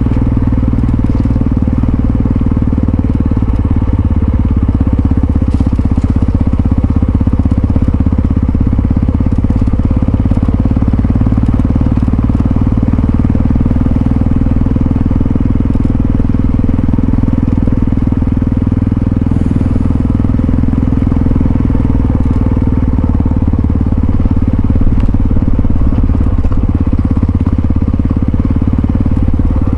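Yamaha XT660Z Ténéré's single-cylinder engine running steadily, holding an even speed with no revving up or down.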